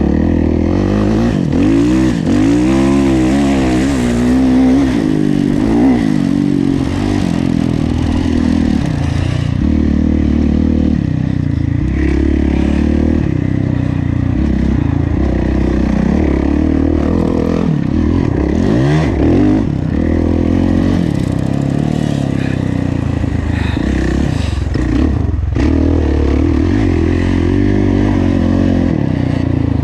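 Kawasaki KX450F's single-cylinder four-stroke engine racing around a motocross track, its pitch repeatedly rising and falling as the throttle is opened and shut.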